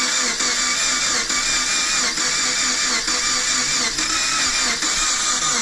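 Subaru flat-four engine being turned over on its starter motor without catching: a steady, loud cranking whine after its cylinders were treated with decarbonising cleaner.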